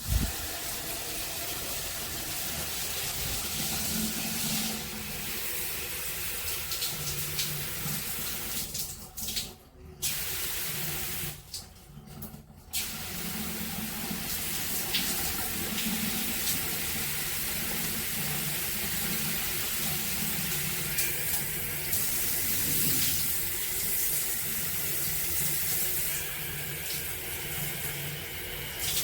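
Water spraying steadily from a StoneStream filtered handheld shower head. The hiss drops away briefly twice, about nine and twelve seconds in.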